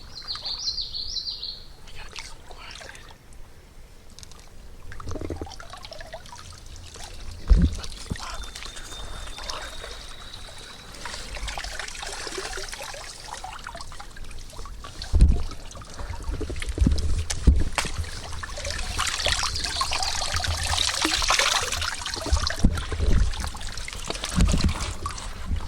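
Water splashing and trickling as people wade through a deep creek, with irregular dull bumps and knocks. A bird chirps briefly near the start.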